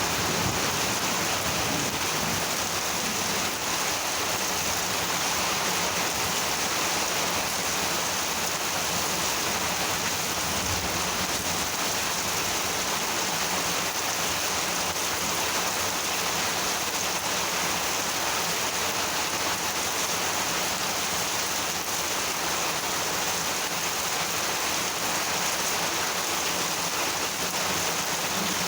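Monsoon rain falling steadily.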